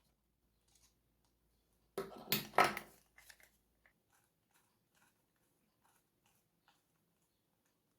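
A short burst of clattering and knocking about two seconds in, then scattered light clicks: hard plastic parts and a tool being handled as an RC truck is reassembled.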